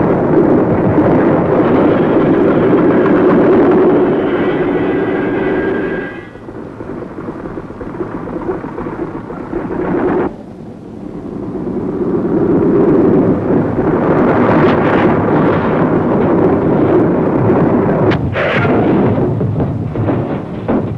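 Propeller-plane engines rumbling loudly and steadily. The rumble falls away about six seconds in, dips again near ten seconds, then builds back up.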